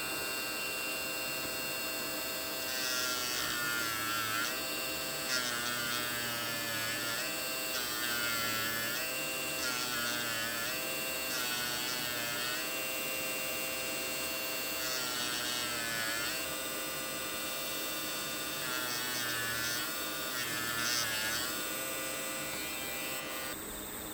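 A small electric motor runs steadily, with about nine stretches of a second or two where its pitch bends and wavers and it sounds louder.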